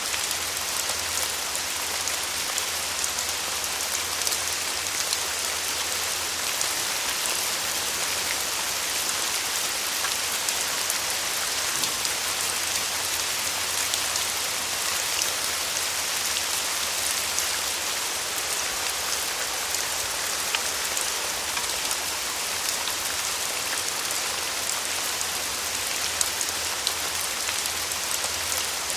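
Steady rain falling on a surface, a dense even hiss dotted with the ticks of individual drops.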